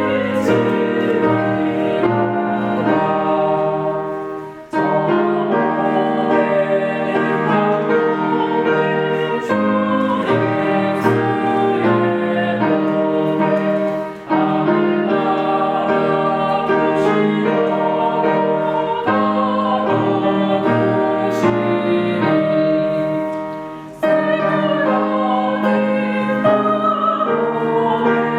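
A hymn sung with piano accompaniment, in long held phrases with a short breath between them about every ten seconds.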